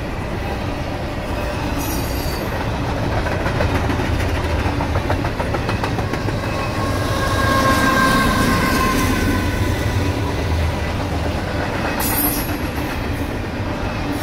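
Double-stack intermodal freight train rolling past close by: a steady rumble and clatter of wheels on the rails. About halfway through, the mid-train CSX diesel locomotive (distributed power unit) passes, its engine rumble swelling to the loudest point with a thin whine on top, then falling back to the rolling of the stack cars.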